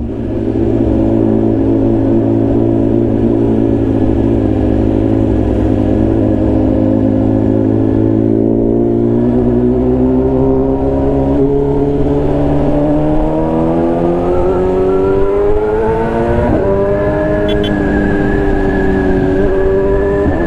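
BMW S1000RR's inline-four engine under a rider on the move. It runs steadily at first, then rises in pitch as the bike accelerates for several seconds. Near the end it drops briefly, as on an upshift, and holds steady again.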